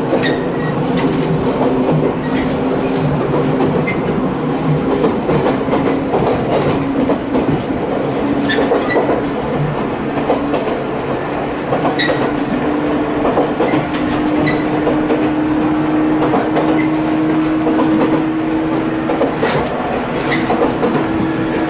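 Running sound inside a Jōmō Electric Railway 700 series (ex-Keio 3000 series) electric train at speed: a steady rumble with wheels clicking over rail joints every couple of seconds, and a motor hum that rises slightly in pitch through the second half.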